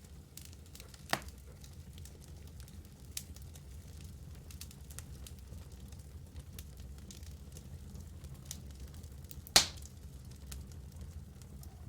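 Wood fire burning in a fireplace: a steady low rumble of flames with scattered small crackles and two sharp pops, one about a second in and a much louder one near the end.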